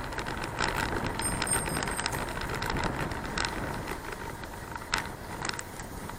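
Riding noise from a moving bicycle: a steady low rumble of wind and road, broken by several sharp rattling clicks and a brief high thin squeak about a second in.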